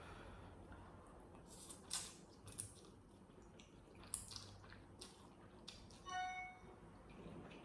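Quiet sounds of eating noodles: a few short wet slurps and mouth smacks about two and four seconds in. A brief high-pitched squeak-like tone comes about six seconds in.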